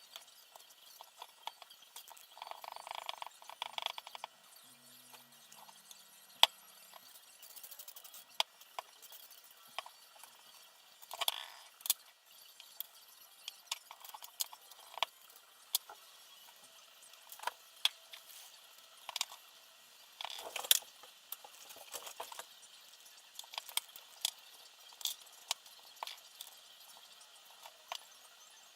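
Small parts and tools being handled during a multirotor frame assembly: scattered, irregular light clicks, taps and metallic clinks, with a sharp louder click about six seconds in and small clusters around eleven and twenty-one seconds in.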